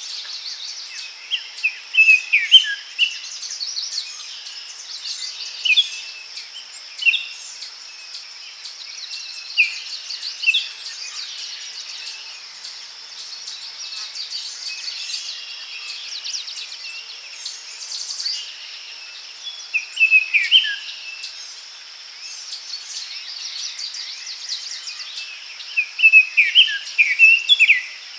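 Daytime forest birdsong: birds singing short chirping phrases that come every few seconds, with a busier burst of song near the end. Underneath runs a steady high-pitched insect chorus.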